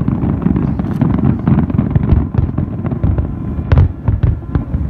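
Fireworks display in a dense barrage: many aerial shell bursts overlapping into a continuous run of booms and bangs, with one sharper crack about three-quarters of the way through.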